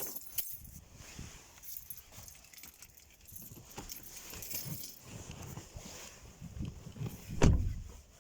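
Car keys jangling and clicking as they are handled, with one louder low thump near the end.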